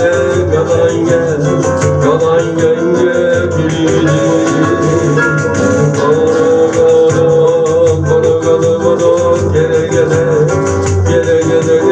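Live bossa nova band playing: guitar, piano, bass and percussion, with a voice singing over a steady, evenly ticking percussion rhythm.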